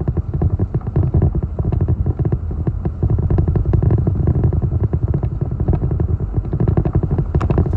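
Strong, gusty hurricane wind buffeting the microphone: a loud, continuous low rumble crowded with frequent sharp clicks and crackles.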